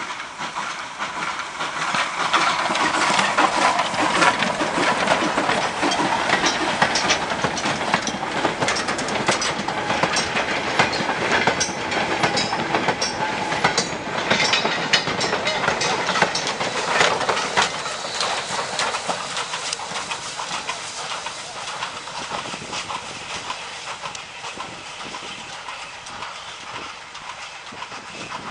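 Freight train of wagons rolling past, wheels clicking and clanking over the rail joints in a dense run of knocks. Loud through the middle, then slowly fading away near the end.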